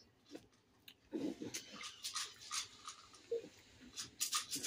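Close-up crunching and chewing of crispy breaded fried chicken, a series of irregular crackly crunches with the loudest cluster near the end.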